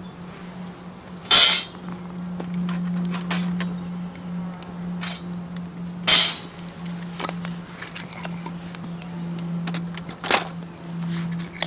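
Cookware knocking and clinking: three sharp metallic clinks a few seconds apart, with lighter clicks between them over a steady low hum.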